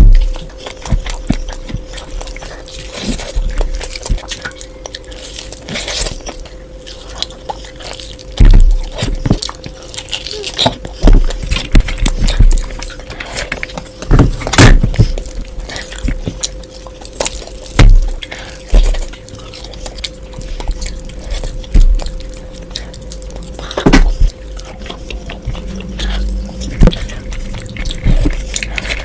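Close-miked eating: irregular wet chewing and crunching clicks, with a handful of louder low thumps, over a faint steady hum.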